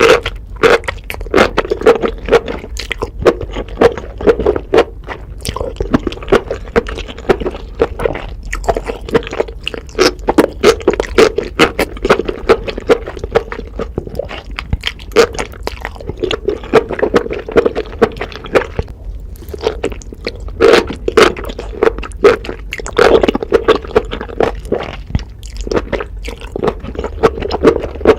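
Close-miked chewing of spicy enoki mushrooms: a dense, unbroken run of crunchy mouth clicks and smacks.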